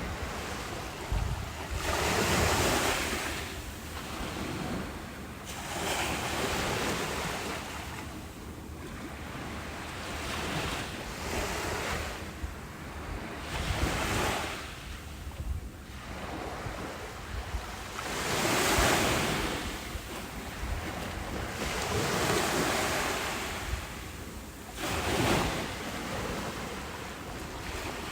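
Ocean waves breaking on a beach, each wash swelling and falling away every few seconds, with wind rumbling on the microphone.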